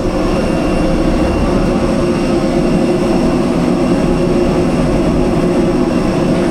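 Steady cabin drone of an Airbus A320-214 parked before departure: air-conditioning and ventilation rush with several steady whining tones over it.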